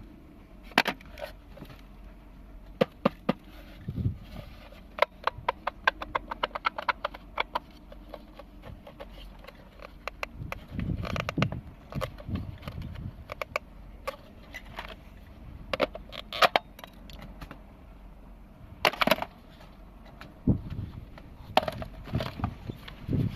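Irregular sharp clicks and knocks of hard objects being handled or struck, with a quick run of rapid clicks about five seconds in and a few heavier knocks later.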